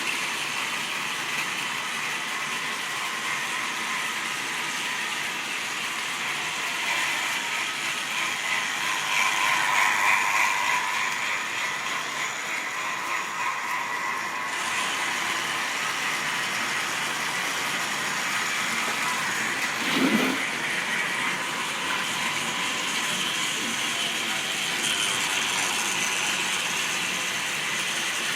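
Model train running steadily around the layout: a whirring motor and the clatter of wheels on the track. It swells louder for a few seconds about a third of the way in, and there is one brief knock about two-thirds of the way through.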